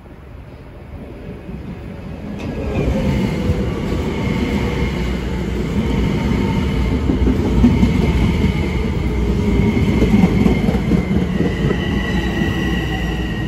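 Metro-North M7 electric multiple-unit train running along the platform, its wheels rumbling on the rails with a steady high-pitched whine over the top. The noise swells as the train arrives about two seconds in, and the whine drifts slightly lower near the end.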